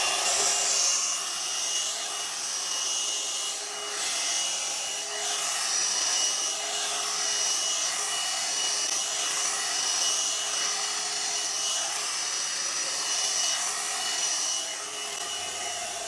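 Hot air brush (hairdryer brush) running on its low setting: a steady blowing with a motor whine, the air noise swelling and dipping a little as the brush is drawn through hair.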